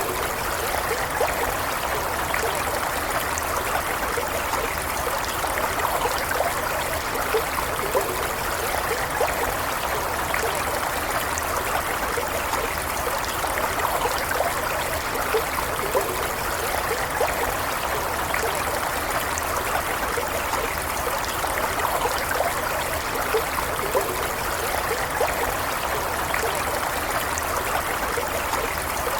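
A small stream running steadily, water babbling and trickling over stones with many small bubbling gurgles.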